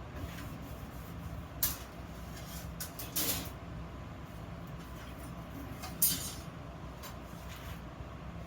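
A few sharp knocks of metal pieces being handled, the louder ones about a second and a half, three and six seconds in, over a steady low hum.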